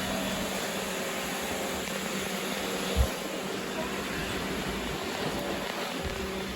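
Robot vacuum running with a steady whirring hiss and a faint hum, sweeping up confetti. A single low thump comes about three seconds in.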